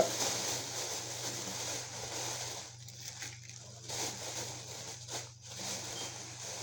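Rustling and crinkling of takeout food packaging being handled, in irregular bursts with short pauses.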